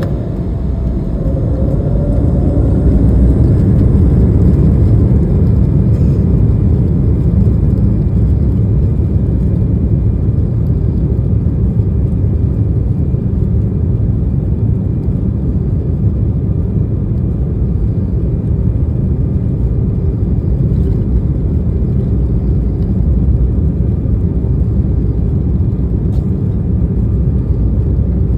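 Boeing 737 jet engines and rushing air heard inside the cabin during takeoff: a loud, steady low roar. Faint tones shift in pitch over the first few seconds, and a thin high whine joins about five seconds in.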